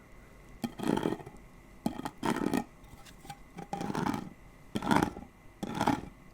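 Fingernails scratching over a candle's bumpy surface in short strokes, about one a second.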